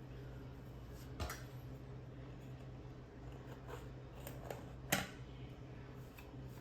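Two sharp clicks about four seconds apart, with a few lighter ticks between them, from small hand tools being handled during caulking and filling work, over a steady low hum.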